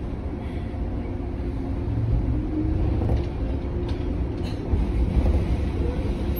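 Onboard running sound of a JR 103 series electric train heard from inside motor car MoHa 103-458: a steady rumble of wheels and traction motors. It gets louder about two seconds in, with a few sharp clicks in the middle.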